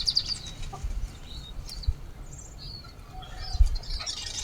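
Small birds chirping here and there: a quick run of high chirps at the start, then scattered short calls, with a few low thuds.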